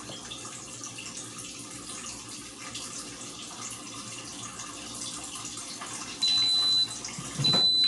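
Steady hissing noise, then near the end two long, high-pitched electronic beeps from the Instant Pot electric pressure cooker's control panel as the cooking program is set.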